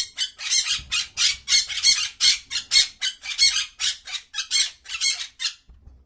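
A bird squawking harshly over and over, about three squawks a second, stopping shortly before the end.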